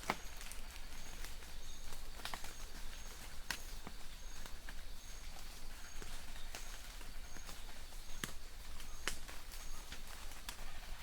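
Light rain in a forest: a steady hiss with scattered sharp drops hitting leaves. A distant bird repeats a short high note about twice a second.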